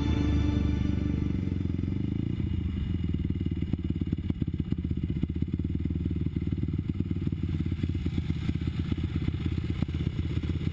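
Dirt bike engine running at low revs, a fast, steady low throb with little high-frequency sound.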